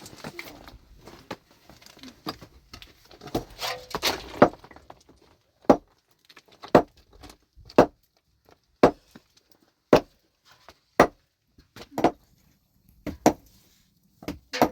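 A hand tool striking a hard surface in a steady rhythm, about one blow a second, after a few seconds of scraping and shuffling.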